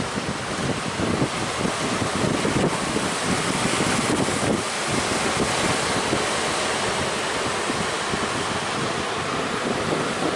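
Sea surf breaking in a steady rush, with strong wind buffeting the microphone in uneven low gusts.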